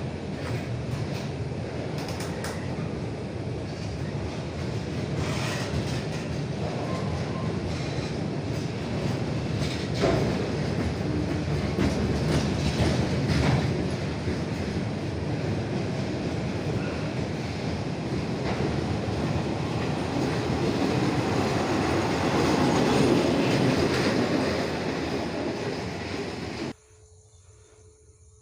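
A State Railway of Thailand train running on the line, a steady rumble of wheels with occasional clacks over the rail joints, growing louder toward the end. It cuts off abruptly near the end, leaving a faint steady hum.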